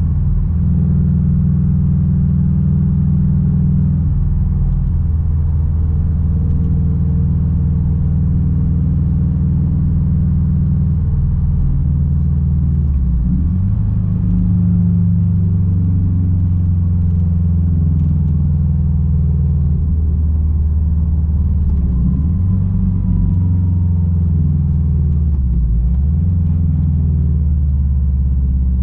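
Straight-piped 2006 Subaru WRX STI's turbocharged flat-four running while driving, a steady low exhaust rumble. Its pitch dips briefly and comes back three times, a little under halfway, about three-quarters of the way through and near the end, as at gear changes.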